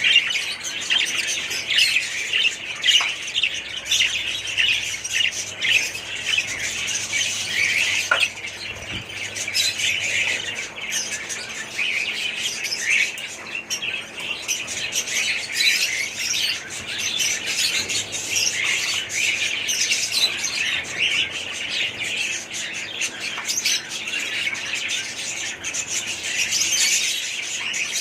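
A flock of small pet parrots chirping and squawking all at once, in a continuous, busy chatter with no pauses.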